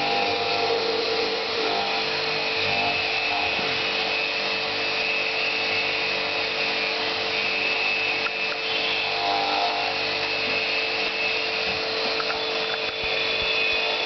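Electric jet pump used for air-conditioner cleaning, running steadily with a constant motor hum under an even hiss.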